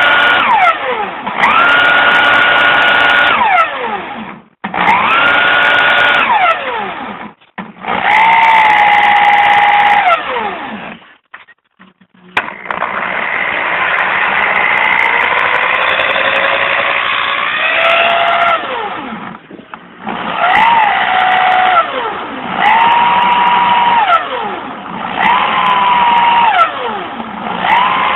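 Motor whine from a washing machine motor converted into a permanent-magnet alternator, spun up by a power tool over and over. Each run rises in pitch, holds steady for about two seconds, then winds down, about seven times, with one longer, uneven run in the middle.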